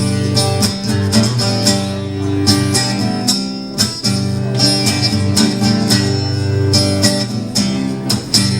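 Acoustic guitar strummed in steady chords, the instrumental close of a country-rock song played live.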